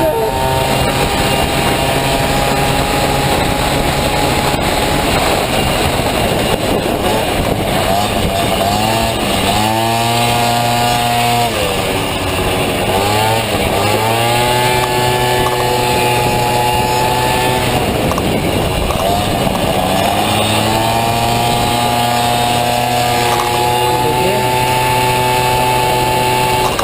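Honda Dio scooter engine in a Honda Motocompo running hard, buzzing at high revs. Its pitch drops and climbs back three times, around ten, thirteen and nineteen seconds in, as the throttle is eased and opened again.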